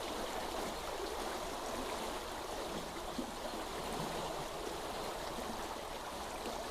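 Steady flowing water of a stream, an even rushing and trickling that does not let up.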